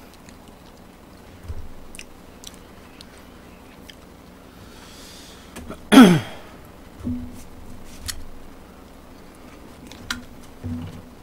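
Eating sounds: quiet chewing with scattered light clicks. About six seconds in comes one short, loud sound that drops quickly in pitch.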